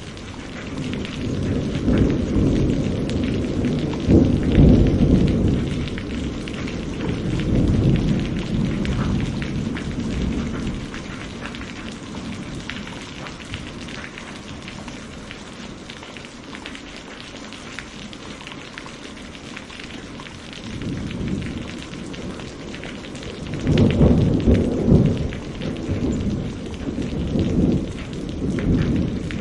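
Steady rain on a window with rolling thunder: a long low rumble swells and fades during the first third, and a second rumble builds near the end.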